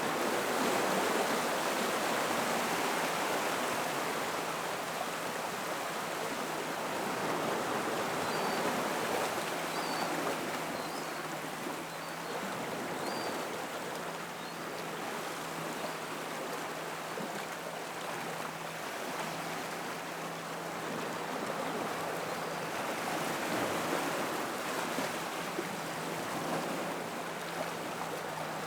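Gentle ocean waves washing over rocks and into a rock pool, the rush of water swelling and easing every few seconds. A faint steady low hum runs underneath, and a few faint high chirps come about a third of the way in.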